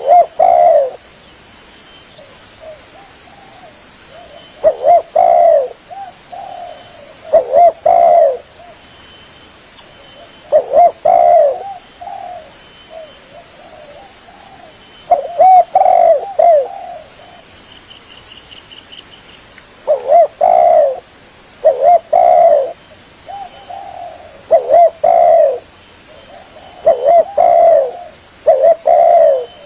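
Spotted dove cooing: short phrases of two or three low, bending coos, each about a second long, repeated every two to three seconds with a few longer pauses.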